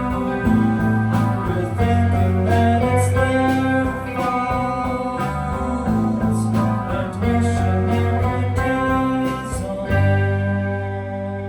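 Live band music with guitar to the fore over a bass line, the chords changing every second or two.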